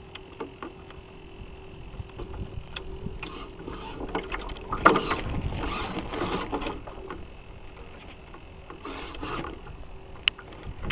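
Water rushing and splashing against the hull of a North Wind 360 RC sailboat, heard from a camera mounted on board. It swells loudest about halfway through and again briefly near the end, with small clicks and a faint steady hum underneath.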